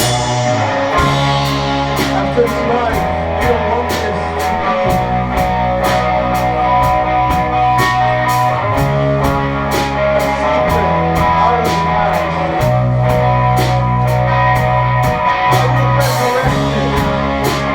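Live indie rock band playing an instrumental passage: electric guitars over a bass guitar holding long low notes that change every second or two, with a drum kit keeping a steady cymbal beat.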